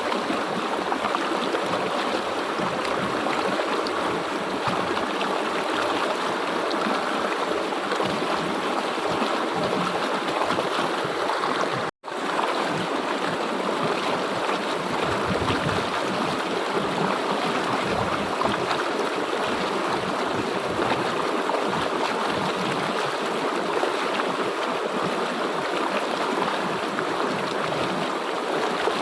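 River water flowing in a steady rush. The sound drops out for an instant about twelve seconds in.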